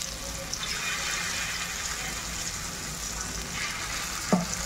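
Marinated soya chunks shallow-frying in hot oil in an iron kadai: a steady sizzle. A brief sharp knock near the end as another chunk is set into the pan.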